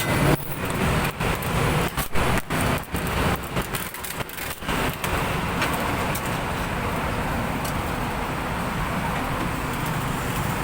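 Steady road traffic noise, cut by a run of brief dropouts during the first five seconds.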